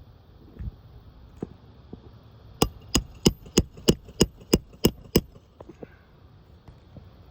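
Hammer striking nine quick, even blows, about three a second, each with a short metallic ring, preceded by a few lighter knocks.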